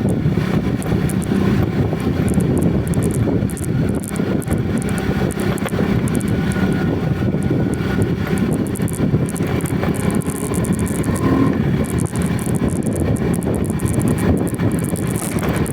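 A vehicle's engine running steadily while on the move, with road and wind noise and a crackling flutter over the top.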